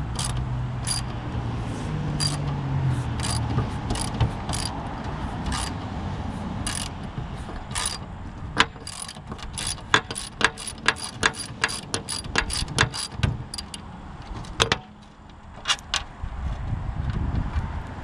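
Socket ratchet wrench clicking in repeated strokes, sparse at first and then in quick runs of several clicks a second, while bolts on a finish mower's bearing assembly are turned.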